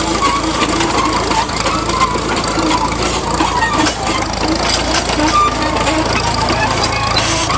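Steam traction engine on the move, with steady clattering and crunching and many sharp clicks.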